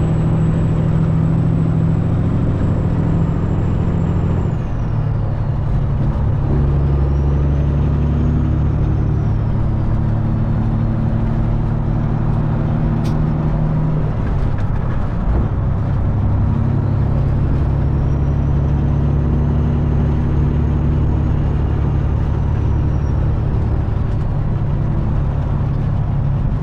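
Detroit Diesel Series 60 engine of a long-hood semi truck pulling at road speed, a steady low drone whose pitch steps about five seconds in and again around fifteen seconds in. A single sharp click comes about thirteen seconds in.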